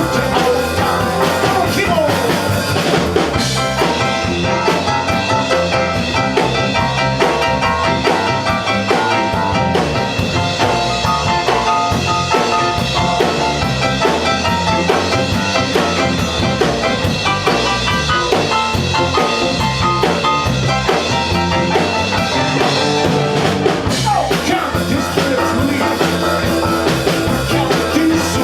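A band playing an up-tempo song, with a drum kit keeping a steady beat under sustained instrument lines.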